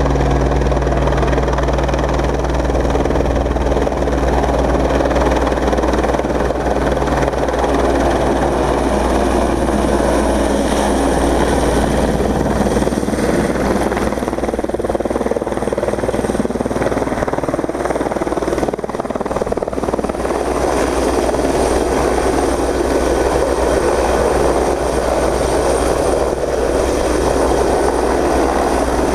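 Fire brigade helicopter running loud and steady, its rotor giving a continuous low drone under broad engine noise.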